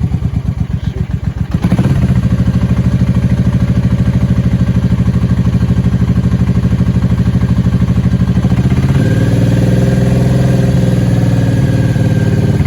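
Suzuki Boulevard motorcycle engine running at idle with the throttle untouched, a fast, even pulse that steps up in loudness a couple of seconds in. The bike has been stumbling and dying under throttle since a ride in heavy rain, which the owner wonders may be the fuel pump.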